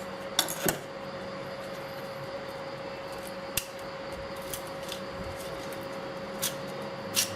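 A few sharp metallic clicks and clinks of hand tools and parts handled during disassembly work: two close together near the start, one near the middle and two near the end, over a steady background hum.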